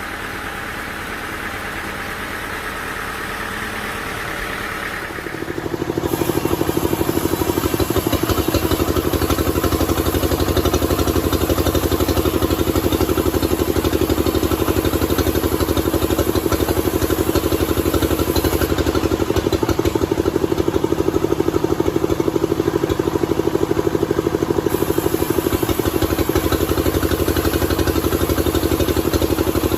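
Engine running steadily. About five and a half seconds in, the sound jumps abruptly to a louder, denser steady run with a strong low hum.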